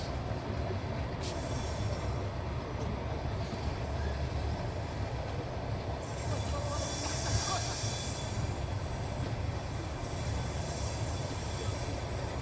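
Train running along the track: a steady low rumble of wheels and carriage, with a high hiss coming in about halfway through.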